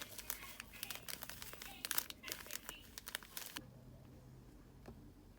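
Crinkly wrapping being handled and crumpled, a run of dense crinkling and crackling that stops about three and a half seconds in, followed by one faint tick near the end.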